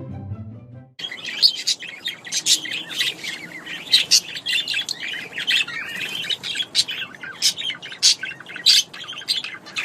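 Birds chirping: a dense, rapid run of short, sharp, high chirps, many overlapping, starting suddenly about a second in after a snatch of music.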